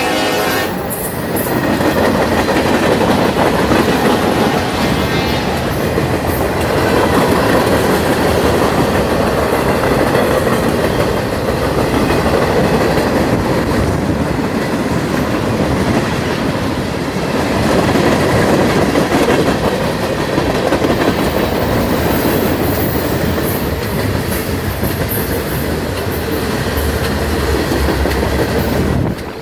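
Norfolk Southern freight train rolling past, its cars' wheels clattering over the rail joints in a steady loud rumble. A horn blast carried over from just before stops just under a second in.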